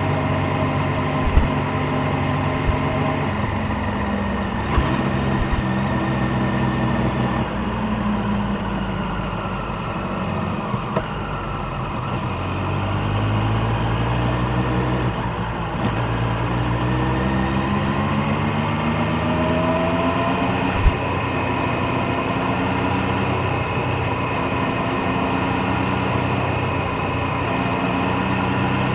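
Triumph Street Triple 765 Moto2 Edition's three-cylinder engine and exhaust running under way, its revs repeatedly rising and falling as it is ridden through the gears. A few short sharp clicks stand out near the start and about two-thirds of the way through.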